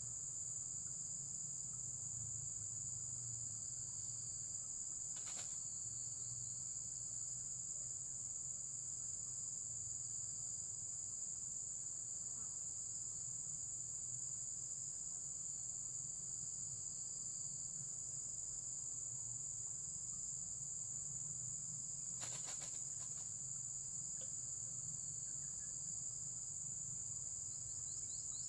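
Steady high-pitched chorus of insects such as crickets, unbroken throughout, over a low background rumble. A short click comes about five seconds in and another brief rattle about twenty-two seconds in.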